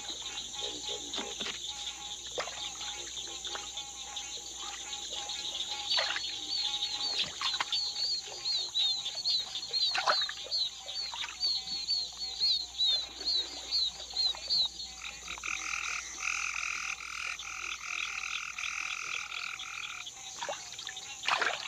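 Night swamp chorus of frogs and insects under a steady high-pitched drone. From about six seconds in comes a run of quick, repeated chirping calls, and from about fifteen to twenty seconds a loud buzzing frog trill.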